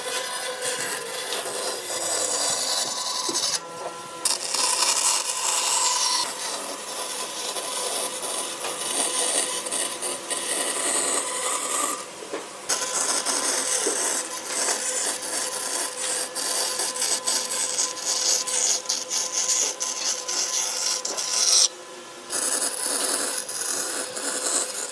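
Wood being worked with an abrasive or rasping tool: continuous scraping and rubbing over a steady hum. It breaks off briefly three times, about four, twelve and twenty-two seconds in.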